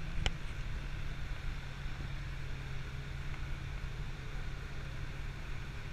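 Vehicle engine running with a steady low hum, and a single sharp click about a quarter second in.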